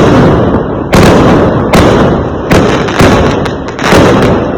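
Fireworks going off: about six loud bangs, each about half a second to a second apart, and each trailing off into a rumble before the next.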